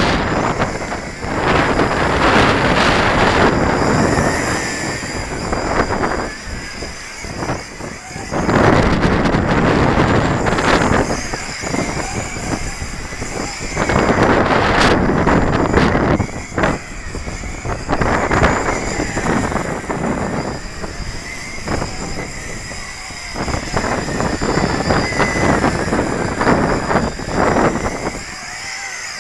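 Strong gusts of wind buffet the microphone in surges every few seconds. Under them runs the high whine of a YiZhan Tarantula X6 hexacopter's motors, working hard against the wind.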